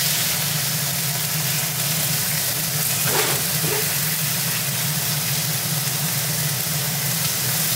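Vegetables sizzling in oil in an iron wok as they are stir-fried with chopsticks over a gas flame. Beneath the sizzle runs a steady low hum.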